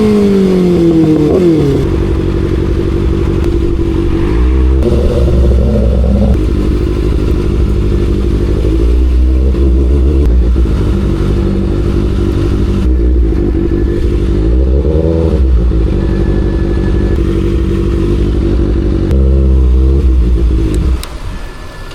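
Kawasaki motorcycle engine running loud, its pitch falling at the start and then rising and falling in several revs, with the last rev ending about a second before the end.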